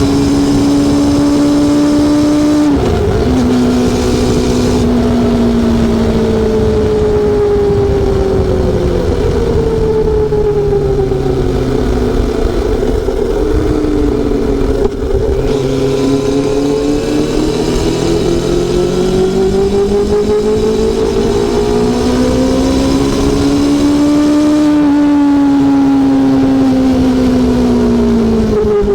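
Honda CB400SF Super Four's inline-four engine and exhaust under way. The engine note holds high at first and dips briefly about three seconds in. It then falls away slowly, rises steadily again to a peak about three-quarters of the way through, and drops off near the end.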